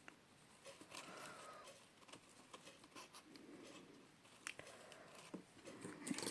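Faint rustling and a few light clicks of ribbon and cardstock being handled while a ribbon bow is tied.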